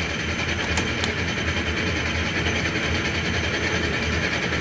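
Logan Powermatic 6561 lathe running steadily in its low back-gear range with the power cross feed engaged, a low motor hum under gear and drive whir. Two short ticks come about a second in.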